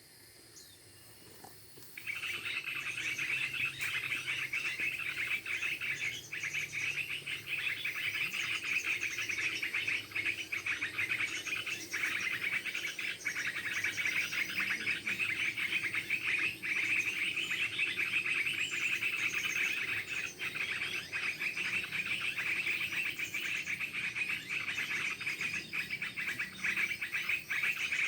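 Birds chirping over a loud, continuous shrill trill that starts abruptly about two seconds in and carries on without a break.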